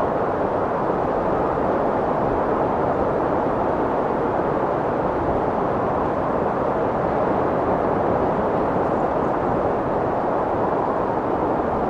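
Strong wind blowing: a steady rushing noise that holds an even level throughout, without distinct gusts.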